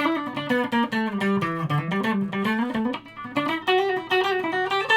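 Electric guitar, a Strat-style guitar wired for 105 pickup combinations, playing a quick run of picked notes with two of its pickups combined in phase and in parallel.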